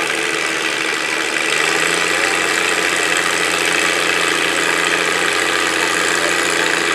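Tractor engine running steadily under the noise of a tractor pull, getting a little louder about a second and a half in.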